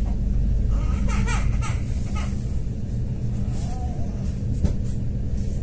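Passenger compartment of a DB class 429.1 Stadler FLIRT electric multiple unit running at speed: a steady low rumble of wheels on rail with a faint traction-motor hum. Brief voices of other passengers about a second in, and a light knock near the end.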